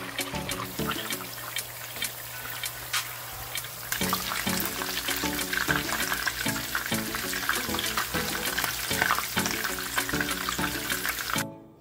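Meatballs sizzling in shallow oil in a frying pan, a steady hiss with many small pops, under background music.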